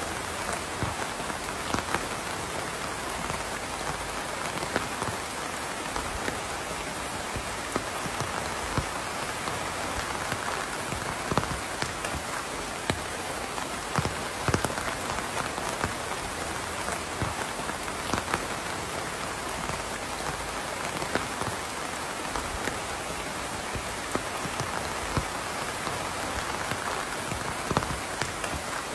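Steady rain falling on a surface, with a constant hiss and many separate drops landing now and then.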